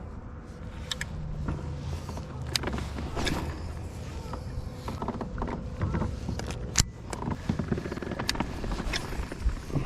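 Scattered clicks, knocks and creaks of fishing gear being handled in a plastic kayak, over a low rumble, with one sharp click about seven seconds in.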